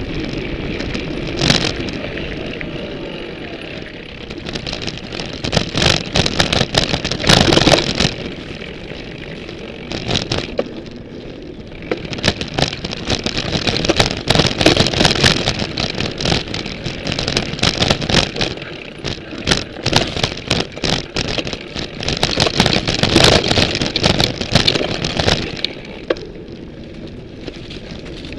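Full-suspension mountain bike ridden over rough ground, heard through a camera fixed to its frame: repeated bursts of rattling and clattering from the bike over bumps, with a steady rush of tyres and wind in between.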